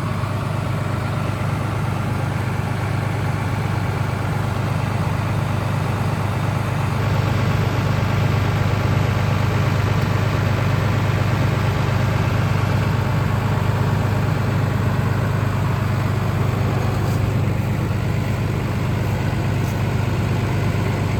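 Tractor diesel engine running steadily, a little louder from about seven seconds in.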